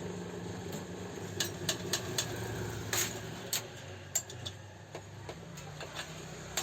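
Irregular light clicks and taps of tools and parts being handled on an old overlock sewing machine during repair, over a steady low hum.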